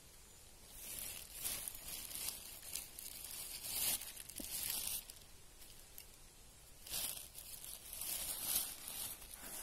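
Irregular rustling and crunching of dry leaves and undergrowth on the forest floor, coming in a series of short uneven bursts.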